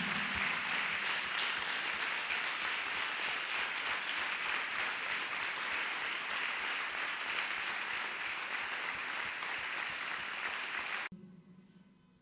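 Congregation applauding steadily, until it cuts off abruptly about eleven seconds in.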